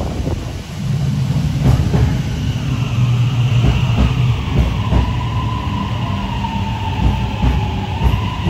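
High Capacity Metro Train electric multiple unit pulling into an underground station platform and slowing: a low rumble of wheels on rail with scattered clacks over the track, and a motor whine that comes in about three seconds in and drops slightly in pitch as the train decelerates.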